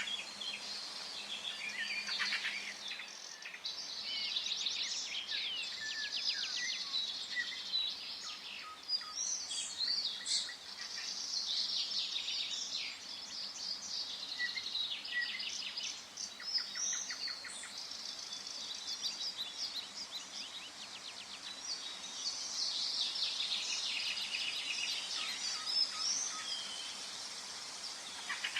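Several songbirds singing and chirping at once, a dense chorus of trills and quick whistled notes over a faint steady background hiss.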